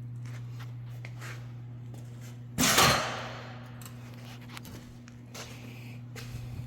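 A single loud bang or slam about two and a half seconds in, dying away over about a second, over a steady low hum.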